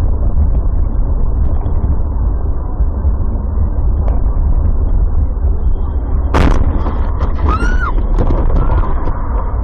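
Steady low rumble of a vehicle on the road, broken about two-thirds of the way through by one sharp bang, a collision, followed by a couple of short high rising-and-falling cries.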